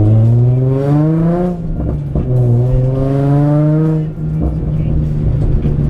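Car's V6 engine accelerating hard: its pitch climbs, drops at a gear change about one and a half seconds in, climbs again through the next gear, then settles to a steady run about four seconds in.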